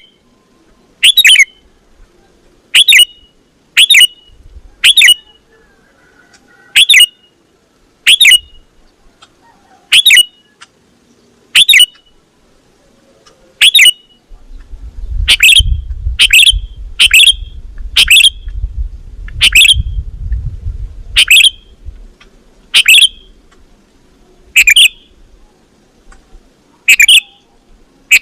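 A caged or pet bird giving short, loud calls over and over, each sliding down in pitch, about one every one to two seconds. A low rumble runs under the calls through the middle stretch.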